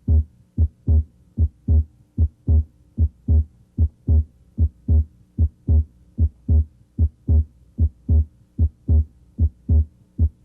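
Normal human heart sounds at the left third intercostal space: a regular lub-dub, S1 then S2 a moment later, about 75 beats a minute. With deep breathing, S2's aortic (A2) and pulmonic (P2) components may be heard split.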